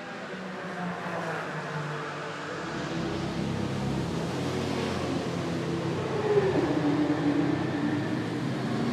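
Porsche 997 GT2 RSR's twin-turbo 3.9-litre flat-six running at moderate revs. About six seconds in, its note falls in pitch and then holds steady.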